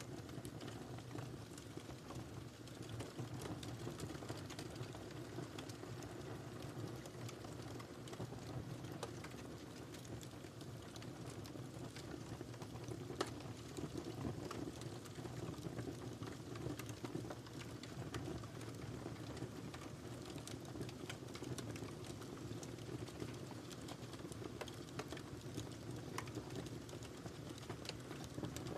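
Wood fire crackling in a fireplace: a steady low rumble of flames under many small, sharp crackles and pops, with one louder pop about 13 seconds in.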